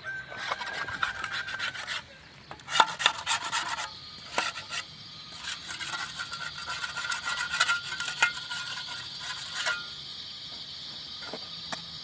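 Spade scraping and cutting through soil in irregular strokes, with short metallic squeaks. A steady high-pitched drone runs underneath from about four seconds in.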